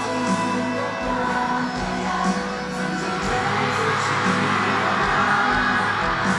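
Live pop concert music with bass and sustained instrument or voice lines, heard through the noise of a cheering crowd.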